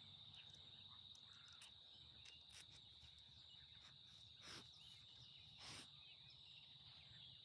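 Faint, steady high-pitched trill of insects such as crickets, with a few faint bird chirps and two soft, brief whooshes near the middle.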